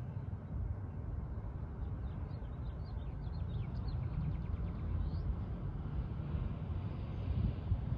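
A songbird sings a phrase of quick, falling chirps that ends in a rapid trill, starting about two seconds in, over a steady low rumble.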